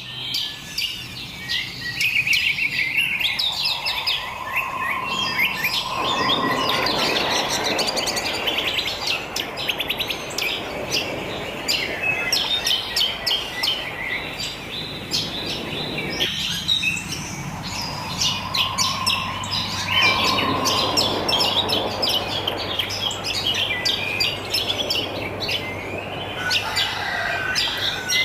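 Many wild birds chirping and singing at once, short calls overlapping throughout. Under them runs a steady rushing background noise that drops out for a few seconds in the middle.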